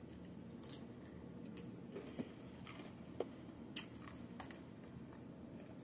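Faint chewing of a fry, with a handful of short, soft mouth clicks.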